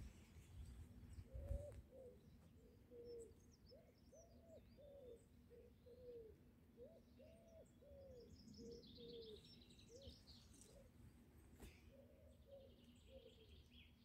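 Faint bird calls: a series of soft, low, rising-then-falling notes repeated about once or twice a second, with higher songbird chirps and a quick falling trill about nine seconds in. A brief low rumble sounds in the first two seconds.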